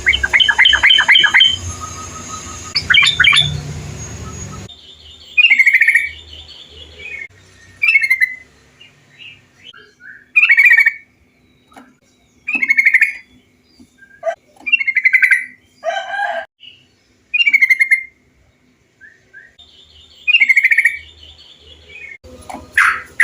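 Yellow-vented bulbul (trucukan) song: short, quick chirping phrases repeated every two to three seconds. A noisier recording of rapid chirps cuts off abruptly about five seconds in, and a cleaner recording follows.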